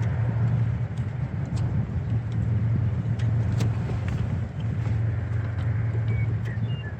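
A steady low hum, like a vehicle or machine running nearby, with a few light clicks.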